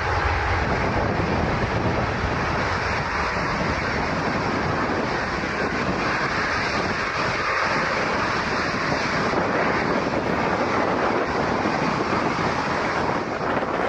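Boeing 757's jet engines running at high takeoff power: a steady, even rushing noise that holds throughout.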